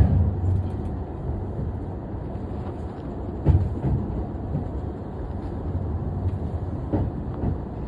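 Commuter train rolling slowly, a low rumble that eases off over the first second, with a few clunks of the wheels over rail joints: the train pulling into the station.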